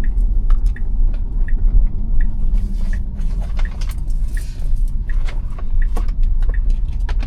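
Road and tyre rumble inside the cabin of a 2021 Tesla Model Y electric car on the move, with the turn-signal indicator ticking about every 0.7 seconds and a few small clicks.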